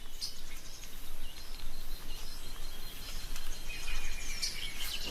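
Tropical forest ambience: short high bird chirps and calls over a steady, pulsing high insect drone, with the calls growing busier near the end.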